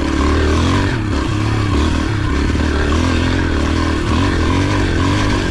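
Yamaha TT-R125's small single-cylinder four-stroke engine running under load while being ridden over sand whoops, its pitch rising and falling as the throttle is worked.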